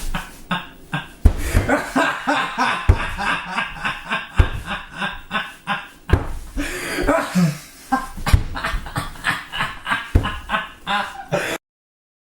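Snickering laughter: quick breathy bursts repeated several times a second, cutting off suddenly near the end.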